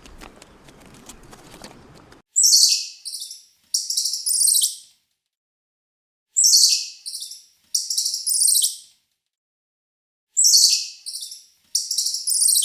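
A small bird singing the same short, high-pitched phrase three times, about four seconds apart: each a falling note followed by a few rapid trills. The song starts about two seconds in, after faint background noise with a few light clicks.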